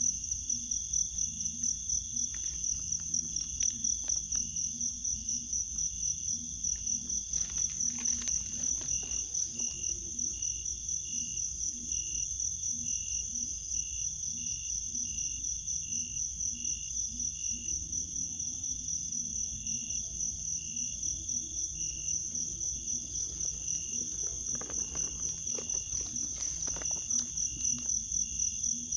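A night chorus of crickets: a steady, rapidly pulsing high trill, with a second chirping call repeating about twice a second. Brief rustling comes about eight seconds in and again near the end.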